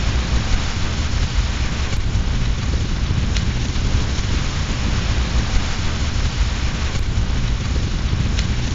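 Steady heavy rain with a deep rumbling undertone, and a few sharp pops from a crackling wood fire in a fireplace, about four times.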